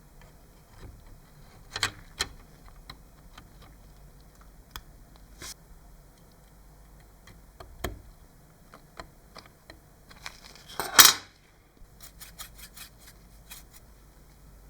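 Scattered clicks, clinks and knocks of small hard parts and hand tools being handled, with one louder noisy burst lasting about a second about two-thirds of the way through, followed by a quick run of clicks.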